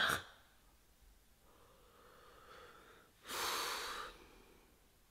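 A person's breath, one audible exhale lasting about a second, a little over three seconds in, with near silence around it.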